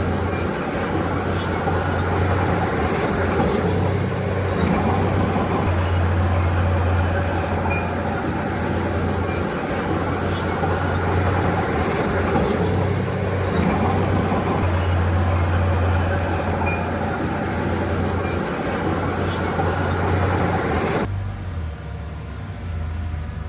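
Diesel engine of a crawler bulldozer running steadily under work, with scattered small metallic clinks and squeaks. Near the end the sound cuts abruptly to a quieter engine hum.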